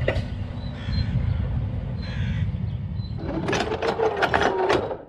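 Steady low rumble of an approaching diesel train, with a quick series of harsh, rasping calls or rattles over it in the last couple of seconds.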